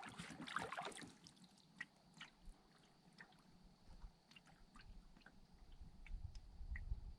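Faint water sounds of a canoe under way: scattered small drips and light sloshing, with soft low water movement near the end.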